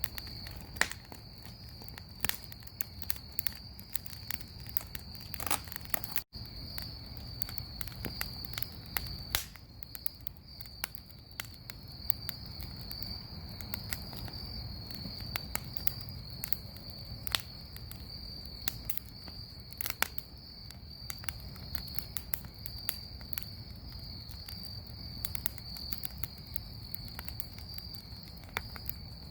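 Bonfire crackling, with frequent sharp pops, over steady high-pitched cricket chirping.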